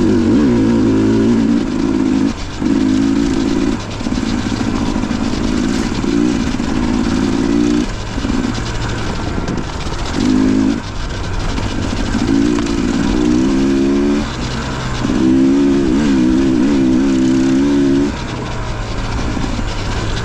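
Dirt bike engine under changing throttle: stretches of louder running with the pitch wavering up and down, easing off between them every second or few, over a steady rush of noise.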